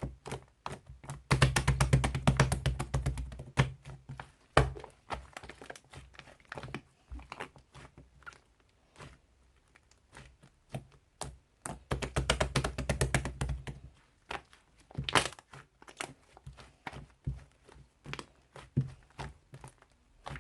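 Slime being squished and poked by hand, giving a run of sharp little clicks and pops, with two stretches of dense crackling, one about a second in and one about twelve seconds in.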